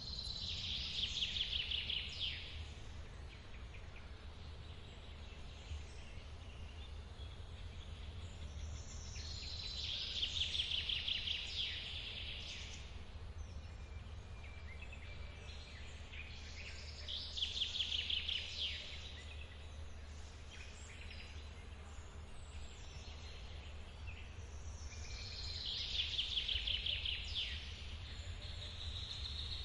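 A songbird repeating the same quick trilled phrase four times, roughly every eight seconds, over a steady low rush of running water.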